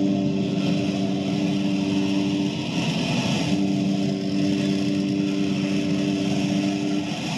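A ship's horn sounding long, steady blasts of a low multi-tone chord, each about three and a half seconds with a short break between, over a continuous rushing noise. It is a sound effect of a passenger liner's foghorn in fog.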